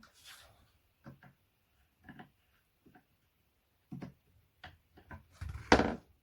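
Handling noises from flat-pack furniture assembly: scattered light knocks and clicks of parts being moved, with a brief scrape at the start and a louder, half-second knock-and-scrape near the end.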